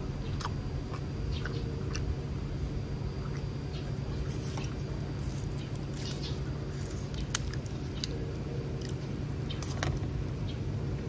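Close chewing of a mouthful of red pork sausage: wet mouth clicks and small squishing sounds, over a steady low hum. One sharp click a little past the middle is the loudest sound.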